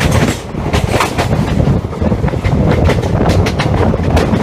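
Express passenger train running at speed, heard from on board: a loud, steady rumble with a rapid clatter of the wheels over the track.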